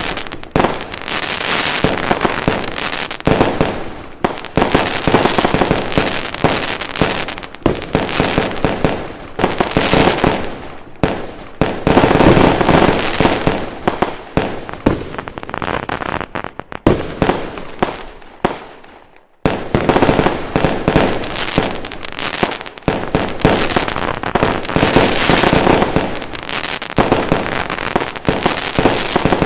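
Fireworks going off in a dense, continuous barrage of bangs, pops and crackling, easing off briefly about two thirds of the way through before starting up again.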